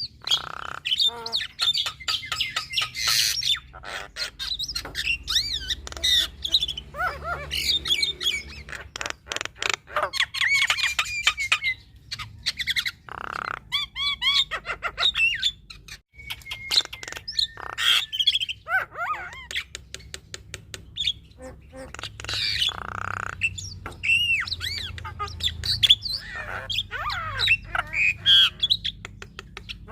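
Javan myna (jalak kebo) singing a long, varied song without pause: harsh squawks, rapid rattling clicks and whistled rising and falling notes, one after another.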